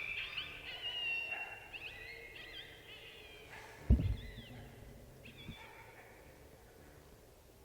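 High, wavering coyote yips and howls, fading over the first three seconds. Then a single sharp rifle shot about four seconds in, the loudest sound, with a fainter click about a second and a half later.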